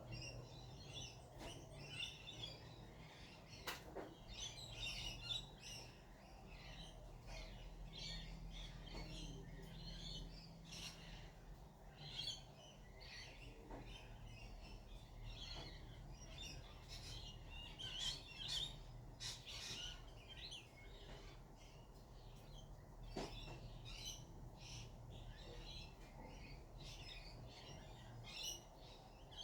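Wild birds chirping: many short, high calls scattered throughout, over a faint steady low hum.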